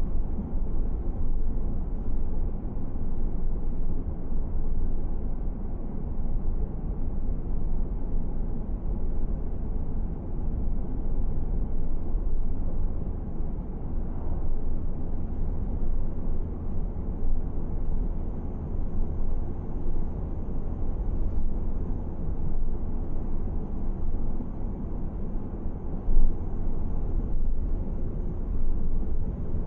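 Steady low rumble of a car driving along the road, tyre and wind noise without speech. One brief louder bump comes near the end.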